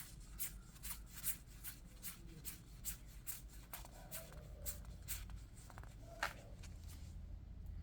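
Yu-Gi-Oh! trading cards being flipped through one after another by hand, a short papery slide of card on card about two or three times a second. It stops a little before the end.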